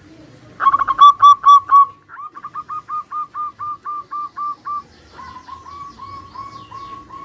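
Zebra doves (perkutut) cooing in rhythmic runs of short, even notes, several birds answering one another: a loud quick run early, a longer steady run of about fourteen notes, then a softer run near the end.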